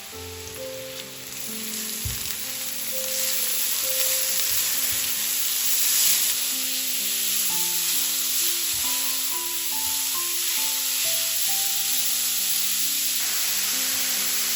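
Food sizzling in hot oil in a frying pan, a steady hiss that grows louder over the first few seconds, with soft background music.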